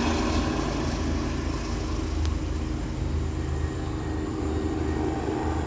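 Steady low engine rumble with no clear changes.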